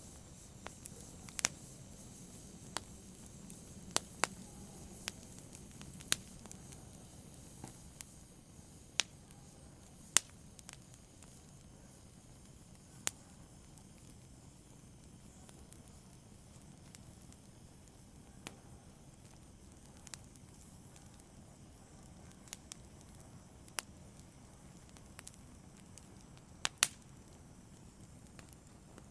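Wood fire in a fireplace crackling: irregular sharp pops and snaps over a soft, steady hiss, the pops more frequent in the first few seconds.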